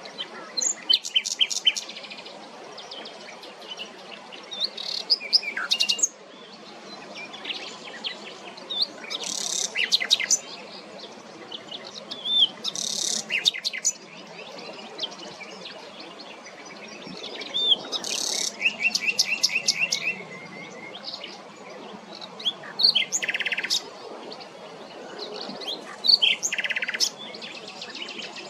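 Common nightingale singing in short, varied phrases separated by brief pauses: rapid clicking trills, pure whistled notes and fast runs of repeated notes.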